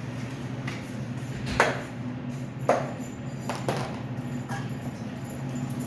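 Three or four sharp knocks, about a second apart, over a steady low hum.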